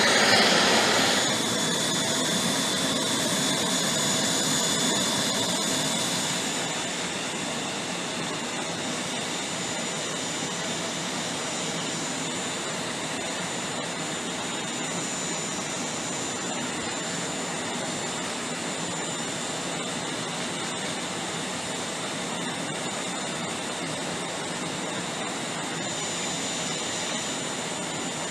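Jet aircraft engines running with a steady rushing noise and a high-pitched turbine whine. The sound is loudest in the first second, then eases a little about six seconds in and holds steady.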